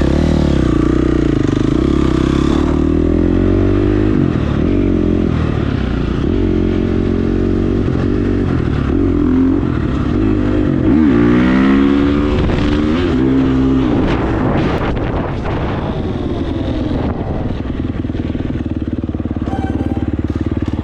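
KTM 350 four-stroke single-cylinder dirt bike engine running under load on a trail ride, its pitch rising and falling again and again as the throttle is opened and rolled off. It runs steadier through the last several seconds.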